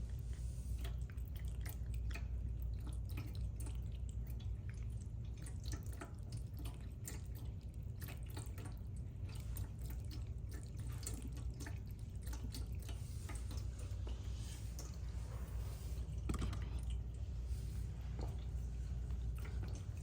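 Stainless steel pet water fountain running: water trickling and dripping from its spout in irregular small splashes, over a steady low hum.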